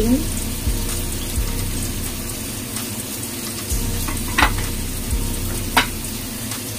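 Tofu deep-frying in hot oil: a steady sizzle with a few sharp crackles, two of them standing out in the second half.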